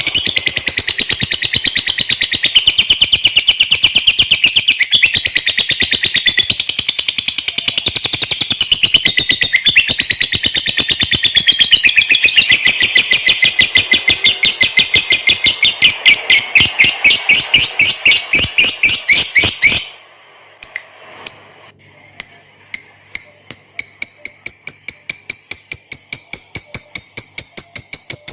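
Lovebird giving its long 'ngekek' chatter: a very fast, unbroken run of shrill repeated notes that breaks off sharply about twenty seconds in. After a short pause it starts again with spaced notes that quicken.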